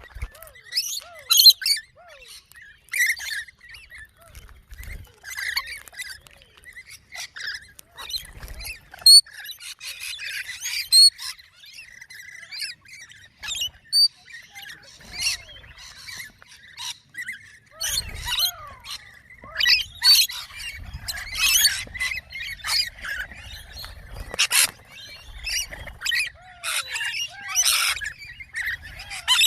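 A flock of small birds chirping and squawking, many short calls overlapping in an irregular, busy chatter.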